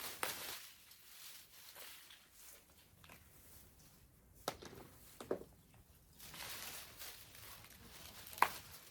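Loofah vines and leaves rustling as gourds are picked, with a few sharp snaps, the loudest near the end.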